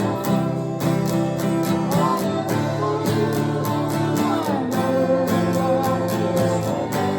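Acoustic guitar strummed in a steady rhythm, with a melody line over it.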